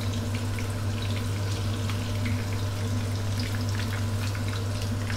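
Textured vegetable protein chunks and soaked shiitake mushrooms sizzling in hot oil in a wok, with many small crackles, over a steady low hum.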